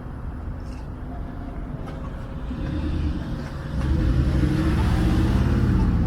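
City street traffic with a motor vehicle driving close by. Its engine grows louder from about halfway in and stays loud near the end.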